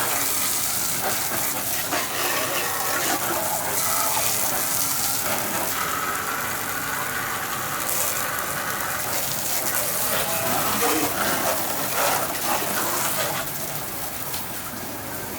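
Water gushing steadily, a continuous rushing that eases off a little near the end.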